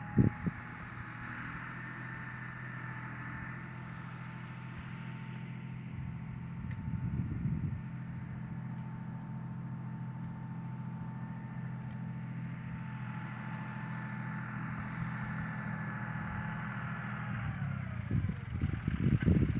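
John Deere 5075 tractor's diesel engine running steadily under load while pulling a plough, with a whine over the engine note. Near the end the pitch falls as the engine slows, and irregular knocks and clatter follow; there is also a single sharp knock right at the start.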